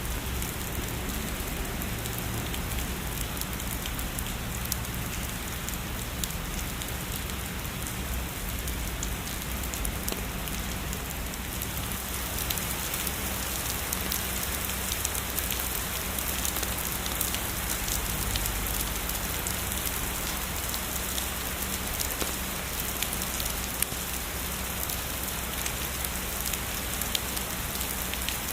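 Steady heavy rain: a dense, even hiss of falling rain with many fine drop ticks, growing slightly brighter about twelve seconds in.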